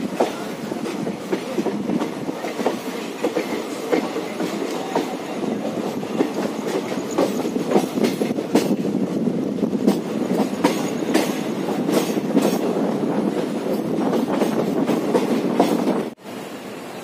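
Running noise of an Indian Railways passenger express heard from an open coach doorway: wheels rolling on the rails with frequent sharp clicks of clickety-clack over the joints. The sound drops sharply to a quieter, steadier noise about a second before the end.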